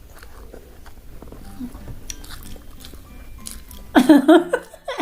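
Quiet chewing and small mouth clicks while eating, then louder pitched music comes in about four seconds in.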